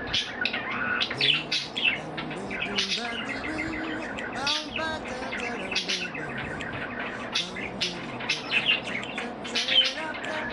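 Pet budgerigars (parakeets) warbling: a continuous, busy chatter of quick chirps, clicks and short whistles.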